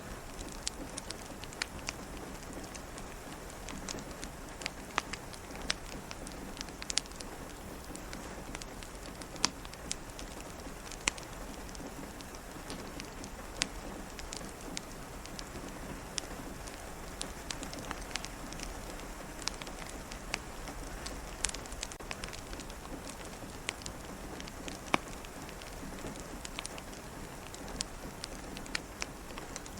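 Steady rain with scattered sharp, irregular pops and crackles from a wood fire.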